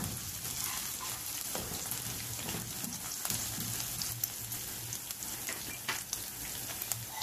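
Chopped garlic and sliced green chillies sizzling in oil in a non-stick wok over low heat, with a spatula stirring them and now and then tapping and scraping the pan.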